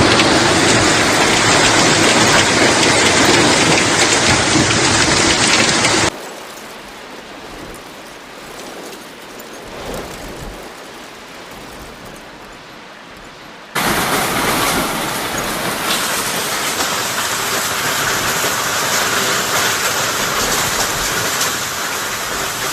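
Heavy hailstorm: a dense, steady hiss and clatter of hail and rain pelting down. It drops abruptly to a much quieter level about six seconds in and comes back loud about fourteen seconds in.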